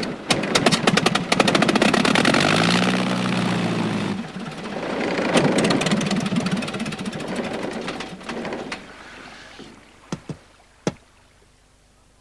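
Light aircraft's piston engine being cranked over, firing in rapid chugs with a rising whine, then fading out over several seconds without catching and staying running. The engine has been sabotaged. Two sharp clicks come near the end.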